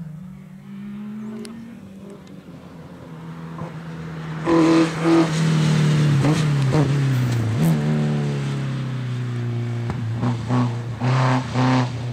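Rally car engine approaching hard and passing, revving through gear changes with the pitch dropping in the middle as it brakes and shifts down. It is followed by a series of short, sharp on-off bursts of throttle near the end.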